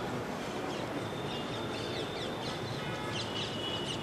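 Birds calling outdoors: many short, quick falling chirps over a steady background of outdoor noise.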